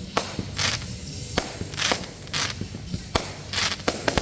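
Fireworks going off: several sharp bangs and pops of aerial shells bursting, more of them near the end. Under them runs a regular swishing hiss about twice a second.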